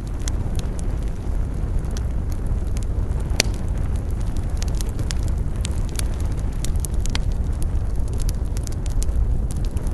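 Wood campfire crackling with frequent sharp pops, one louder snap about three and a half seconds in, over a steady low rumble.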